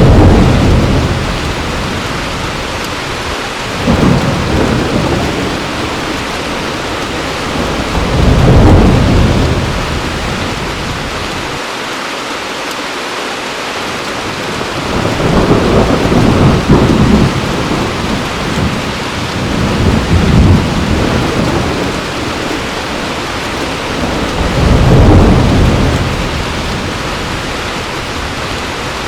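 Heavy rain falling steadily, with thunder rolling in about six separate rumbles that each swell and die away over a few seconds, one of them longer than the rest partway through.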